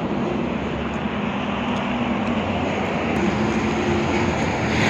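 Highway traffic passing close by: a steady rush of tyre and road noise with the low hum of heavy truck engines.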